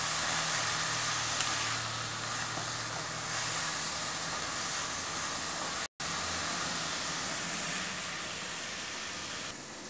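Julienned cabbage, carrot and capsicum sizzling steadily in hot olive oil and a splash of chicken stock in a wok over a high gas flame, stirred with a spatula. The sizzle cuts out for an instant about six seconds in.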